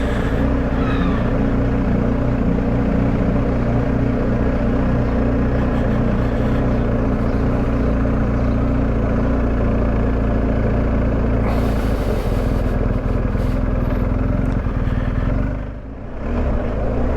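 Motorcycle engine running steadily under way with road and wind noise, with a short hiss about twelve seconds in and a brief drop in level just before the end.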